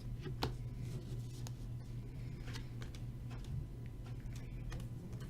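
Trading cards being handled and sorted by hand: a few irregular light clicks and card-on-card snaps, the sharpest about half a second in, over a steady low hum.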